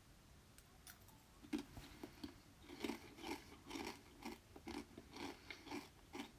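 Brush sweeping dirt across a floor: a run of short, scratchy strokes, about two a second, starting about a second and a half in.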